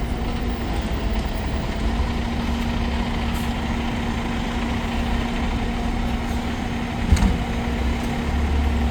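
Fire engine's diesel engine idling steadily, a low rumble with a steady hum. A short knock about seven seconds in.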